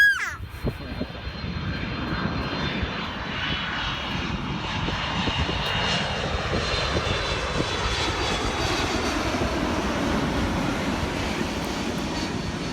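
Jet airliner on landing approach flying low overhead: a steady jet engine rumble with a high whine, building over the first couple of seconds and easing slightly near the end.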